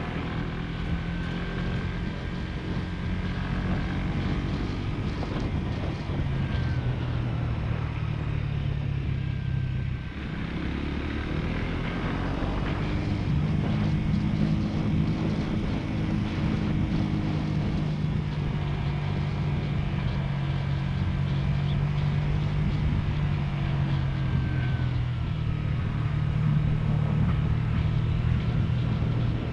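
Motorcycle engine running steadily under way, heard from a camera on the bike. About ten seconds in the engine note dips briefly, then rises again and holds.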